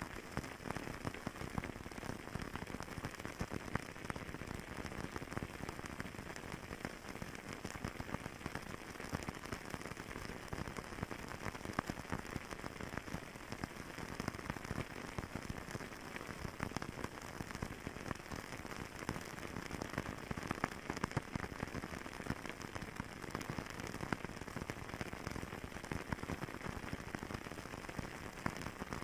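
Fireplace fire crackling steadily: a dense patter of small pops and snaps over a soft hiss.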